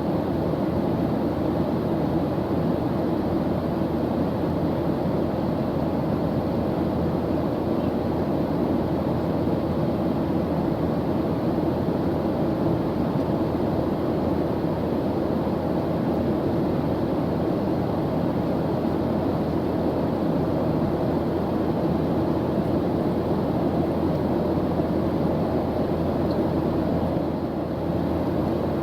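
Steady airliner engine drone as heard inside the cabin in cruise, a constant low rushing hum with no changes.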